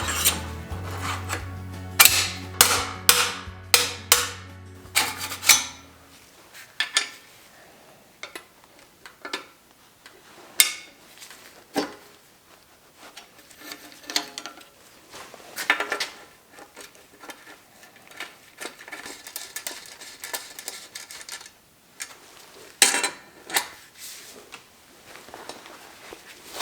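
Bicycle being taken apart with hand tools: a quick run of loud metal strikes and knocks a few seconds in, then scattered clicks, taps and rubbing of tools on bike parts. Background music ends about six seconds in.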